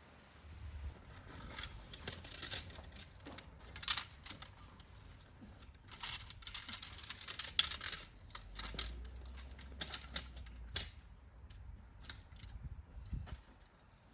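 Light metallic clinks and rattles of camp gear being handled: a scatter of sharp clicks, busiest near the middle.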